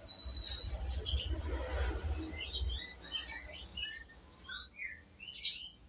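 Small birds chirping: a steady run of short, high chirps and quick whistled slides, overlapping one another. A low rumble sits under them for the first three seconds or so.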